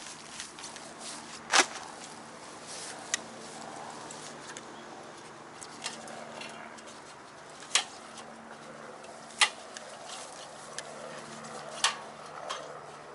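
Metal wood-stove chimney sections clinking and knocking as they are fitted together: a series of sharp clinks several seconds apart, the loudest about one and a half, eight, nine and a half and twelve seconds in.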